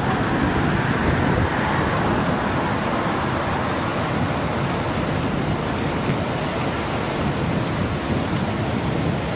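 Steady rushing outdoor background noise with no separate events.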